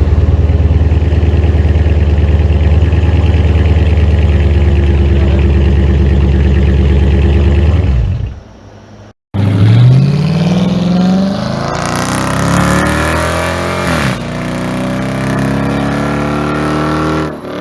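Dodge Charger's 5.7 Hemi V8 on straight pipes with the mufflers removed, idling loud and steady just after starting. After a cut about nine seconds in, the engine accelerates with its pitch climbing, falling back around fourteen seconds and climbing again.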